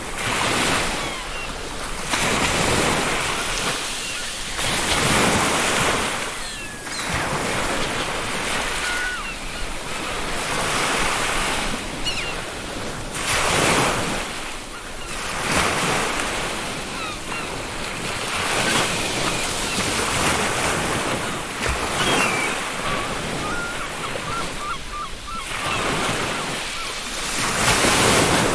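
Ocean surf breaking and washing up a beach, swelling and falling every few seconds, with faint seagull calls now and then.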